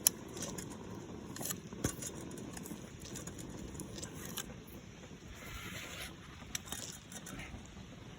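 Faint, irregular clicks and scratching from a small homemade Stirling engine pump, with no steady rhythm.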